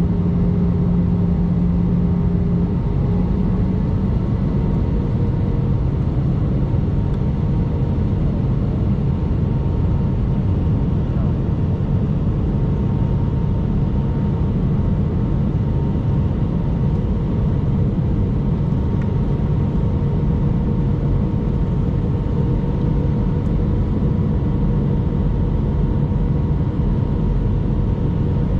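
Airbus A319 jet engines and rushing airflow, a steady drone with faint hum tones; one low hum shifts and fades about three seconds in.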